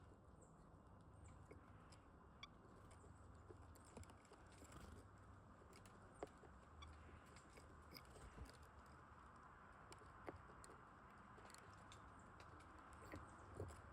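Faint, irregular small clicks and taps over a low steady hum: small birds pecking and cracking seeds at a feeder. A few sharper clicks stand out, about six seconds in, ten seconds in and near the end.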